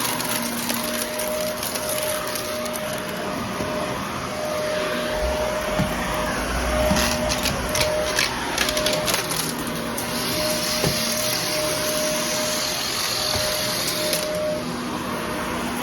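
Vacuum cleaner running steadily with a motor hum, with a patch of crackling and clicking about halfway through as debris from the test mess is sucked up.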